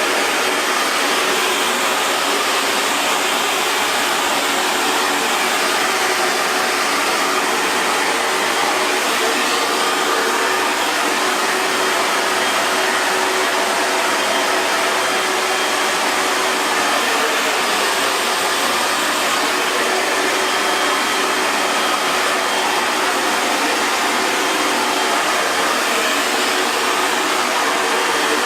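Hair dryer running steadily: a continuous airflow rush with a faint motor whine, unchanging throughout.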